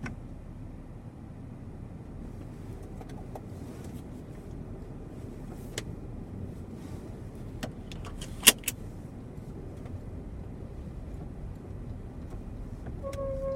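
Inside the cabin of a Hyundai Creta 4WD moving off slowly in first gear in the frost: a low steady running noise with scattered clicks, the sharpest about eight seconds in. Near the end a steady high-pitched squeak starts from underneath the car; this is the creak that was later traced to the propshaft's centre support bearing.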